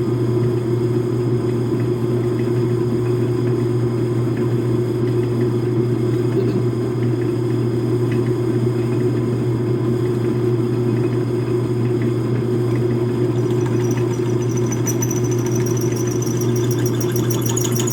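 Metal lathe running steadily while an ordinary, non-carbide drill bit is fed into the bore of a hard steel shell mill. From about three-quarters of the way through, a high-pitched, pulsing squeal comes in and grows. This is a sign that the not-quite-sharp drill is struggling in the hard metal, and it does not sound good.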